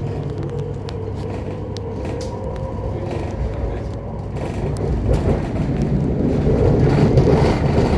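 Electric passenger train running, heard from inside the carriage: a steady rumble with a faint motor whine that rises slowly in pitch, getting louder toward the end.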